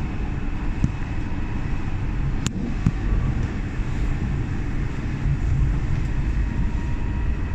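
Docklands Light Railway train running, heard inside the carriage: a steady low rumble of wheels on track with a faint steady whine above it. A single sharp click about two and a half seconds in.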